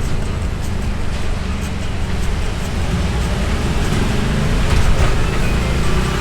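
A motorbike under way on the road: steady wind and road noise with engine and traffic around it, growing louder about five seconds in.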